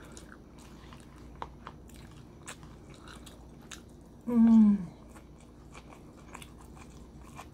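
Eating sounds: chewing a mouthful of kimchi and rice, with small clicks of a spoon against the bowl. About four seconds in, the eater makes a short voiced sound with a falling pitch.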